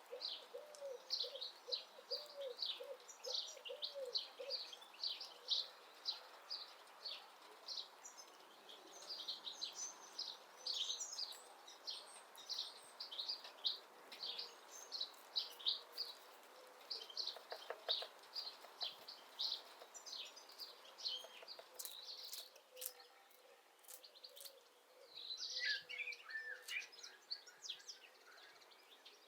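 Songbirds chirping and singing in quick, repeated high notes throughout, with a low cooing call repeated in the first few seconds. A few sharp taps come about two-thirds of the way through.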